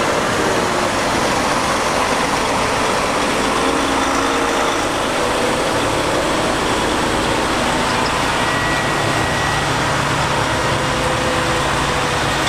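Heavy diesel farm machinery running steadily, a dense mechanical noise with several held engine tones. A brief high whistle comes about eight seconds in.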